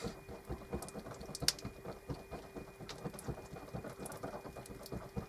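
Two-part epoxy glue being mixed by hand: many small, irregular taps and scrapes, with one sharper click about a second and a half in.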